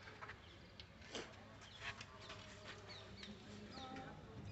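Faint birds chirping: a scatter of short, high calls over a low steady background hum.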